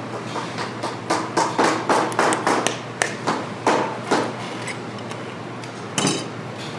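A hammer tapping in quick, uneven strokes, a few a second, each with a short ring. This is typical of boot-repair work on the shoe. The taps thin out after about four seconds, and one heavier knock comes near the end.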